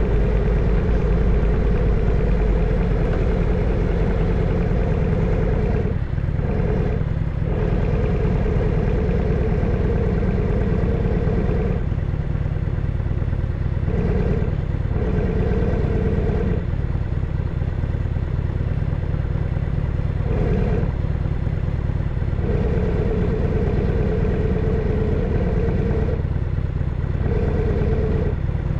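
Harley-Davidson FXSTS's Evolution V-twin engine running under way, a steady low rumble whose tone shifts several times as the load changes.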